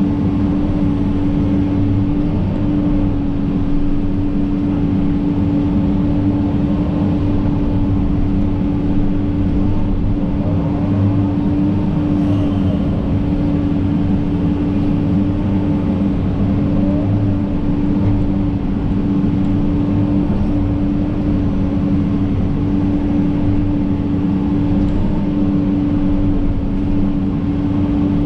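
John Deere 130G excavator's diesel engine running steadily at a constant speed, with a strong, even hum over a low rumble.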